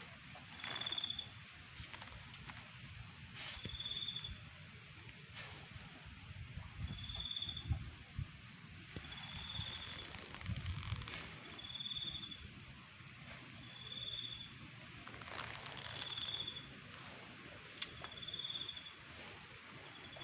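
Crickets chirping: short trilled chirps repeating every two to three seconds over a steady high-pitched insect chorus.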